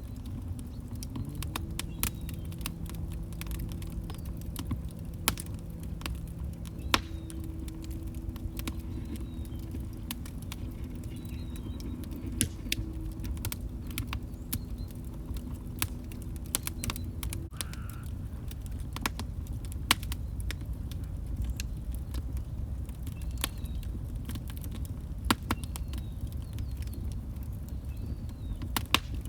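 Log fire crackling: irregular sharp pops and snaps over a low rumble of burning wood. A faint low hum runs under it and stops a little past halfway.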